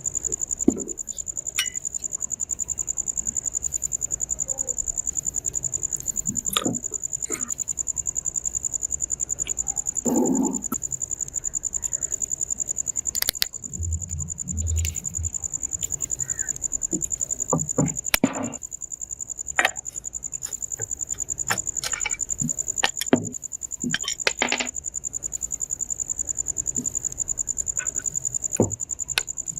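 A steady, high-pitched insect trill pulsing rapidly without a break, with scattered knocks and clatters over it.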